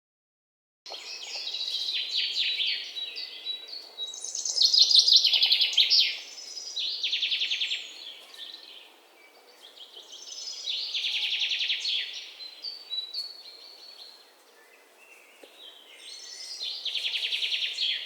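Songbirds singing: repeated fast trilled phrases, high in pitch, coming in bursts every few seconds after about a second of silence.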